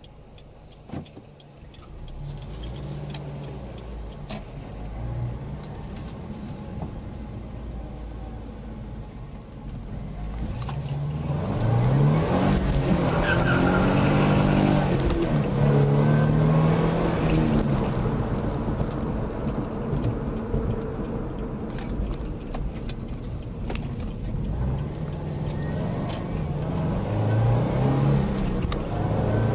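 Car engine running, getting louder about ten seconds in and rising and falling in pitch as the car accelerates and changes speed, with light clicks and rattles over it.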